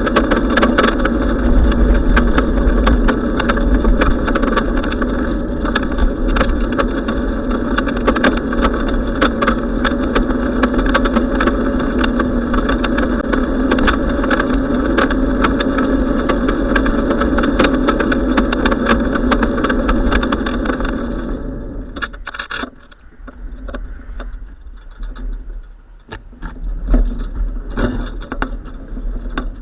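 Steady road and wind noise of a moving bicycle on the camera's microphone, with scattered small clicks and rattles. It falls away sharply about 22 seconds in, leaving quieter, uneven rattling.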